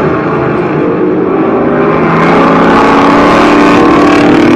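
Race car engine sound effect, a loud steady engine drone whose pitch shifts slightly.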